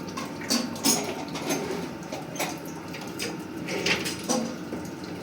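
Irregular light knocks and clicks, about eight over a few seconds, as of hard objects being handled.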